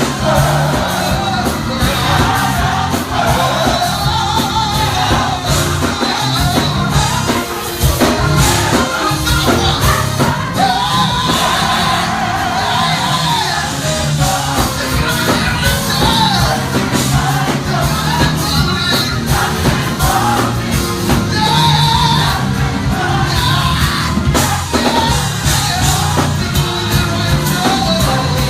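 Gospel choir singing with band accompaniment, a full performance with steady bass and drums under the voices.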